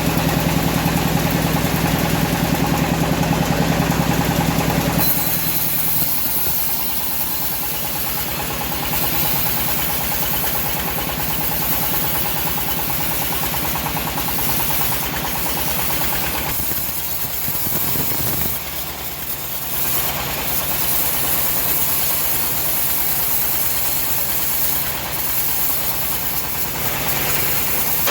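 Engine of a homemade bandsaw running steadily. About five seconds in its low hum drops and a high hiss takes over, holding with small changes to the end.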